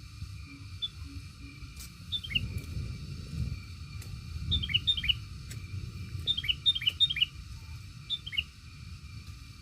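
A small bird chirping: short notes that sweep downward, given in quick clusters of two to four, repeated several times, over a low rumble and a faint steady high hum.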